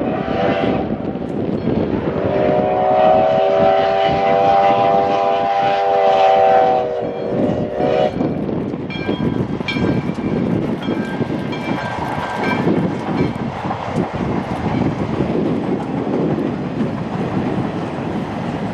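Locomotive whistle sounding a multi-note chord: a short blast, one long blast of about five seconds, then a short one. Afterwards the train rolls past with a steady rumble and light clicking from the wheels.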